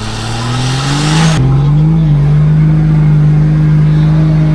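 A vehicle engine revs up and is held at high revs, steady, for several seconds. A hiss cuts off suddenly about a second and a half in.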